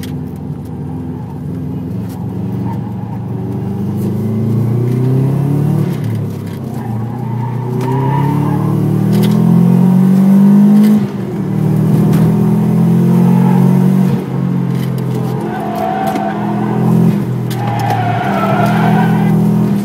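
Subaru Impreza WRX's turbocharged flat-four engine under hard acceleration, heard from inside the cabin, its pitch climbing and then dropping sharply about eleven seconds in and again around fourteen seconds. In the last few seconds the tyres squeal under hard cornering.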